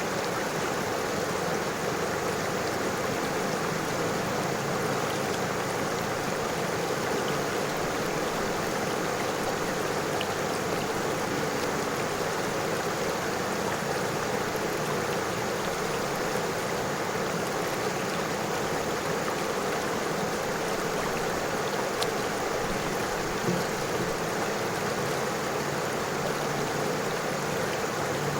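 River water flowing steadily over stones: an even, unbroken rushing.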